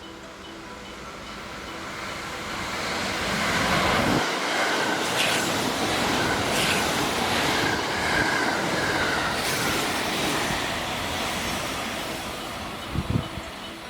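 A limited express train passing at speed along a station platform: the noise builds over the first few seconds, is loudest for about six seconds with a steady high whine and a few sharp clacks, then fades. A brief low thump comes near the end.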